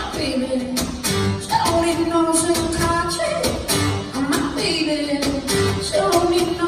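Live song: a singer holds long, wavering notes over band accompaniment, with a low beat about every second and a half.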